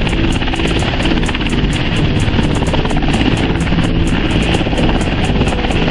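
Aircraft engine drone at an airshow, loud and steady, with a fast regular beat of about seven pulses a second.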